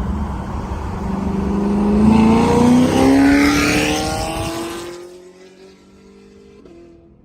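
Chevrolet Camaro 2SS V8 with headers and an MBRP cat-back exhaust accelerating hard, its exhaust note climbing in pitch and growing loud, then fading away about five seconds in.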